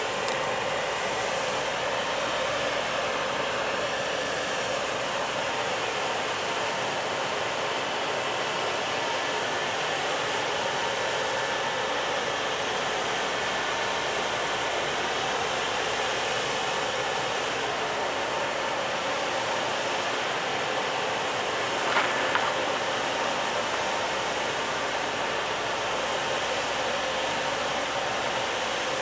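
Freight train's container wagons rolling past, a steady rumble and hiss of steel wheels on the rails with a faint whine. There is one short sharp clank about three-quarters of the way through.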